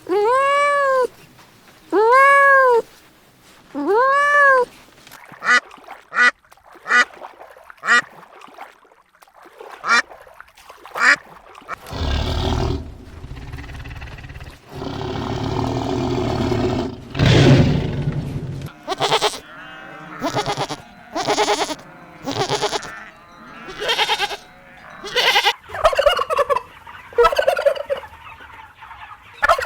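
A series of different animal calls one after another: four long calls rising and falling in pitch at the start, then shorter sharp calls, a noisy stretch in the middle, and repeated short fowl calls near the end.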